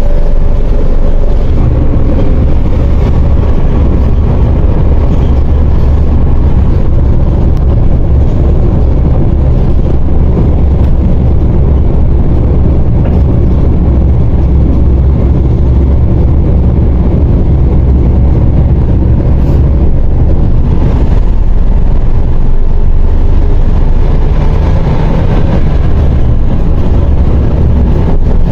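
A 2005 MAZ 104.021 city bus driving, heard from inside the passenger cabin: a steady low diesel engine rumble with road and body noise. The rumble briefly drops and changes about three quarters of the way in.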